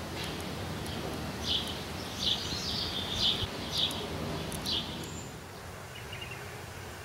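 Songbirds chirping, short repeated chirps about once or twice a second over a steady low outdoor background. The chirping stops about five seconds in, and a faint high tone comes in near the end.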